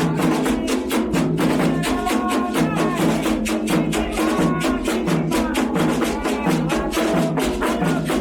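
Candomblé ritual drumming: a fast, steady rhythm of drums and struck percussion, with singing voices faintly over it.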